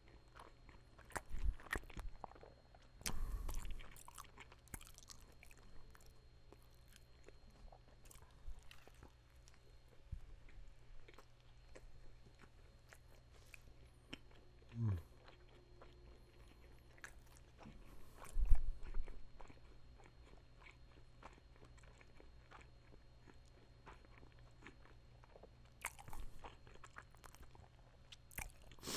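Close-miked chewing and biting of a Burger King Bacon Whopper Melt sandwich: soft wet mouth sounds and small crunches, with louder bursts of crunching about three seconds in and about eighteen seconds in.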